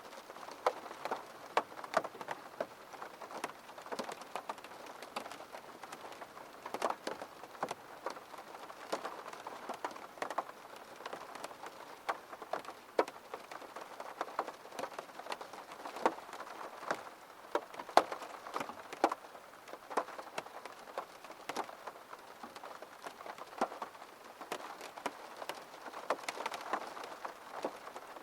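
Rain pattering on a window: a steady wash of rainfall with many individual drops tapping irregularly against the glass.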